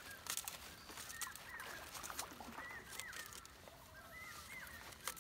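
Birds chirping, short high hooked calls repeated many times, with scattered light ticks and taps.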